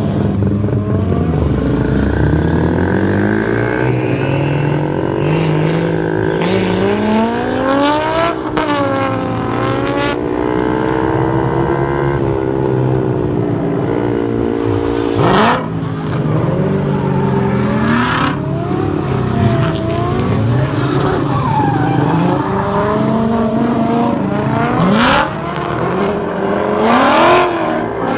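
Drift car engines revving hard, their pitch climbing and dropping again and again as the cars slide through, with a few short sharp peaks.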